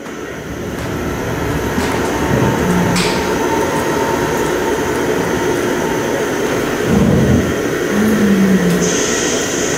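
Dense, steady rumbling noise that fades in quickly at the start, with a few short low tones rising out of it and a high thin tone entering near the end.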